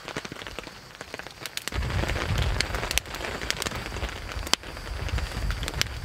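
Steady rain and sleet falling, with scattered sharp ticks, over a campfire crackling with a coffee pot on it. About two seconds in, a low rumble comes in and stays.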